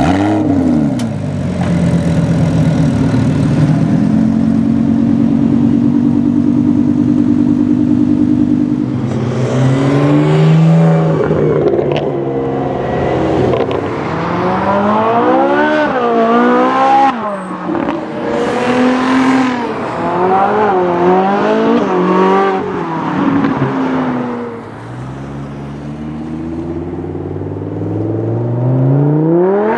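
A car engine running at steady low revs, then revved in a run of quick blips, its pitch rising and falling again and again. Near the end it accelerates hard with a steeply rising note.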